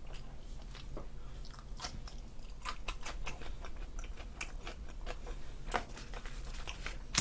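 A person chewing pizza close to the microphone, with scattered small clicks through the chewing.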